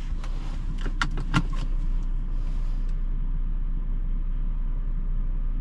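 Audi Q8's engine idling, a steady low rumble heard from inside the cabin, with a few light clicks about a second in.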